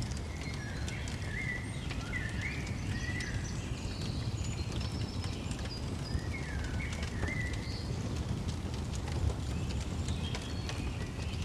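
Songbirds chirping and twittering in short, sliding phrases over a crackling fire, with scattered sharp crackles and a steady low rumble underneath.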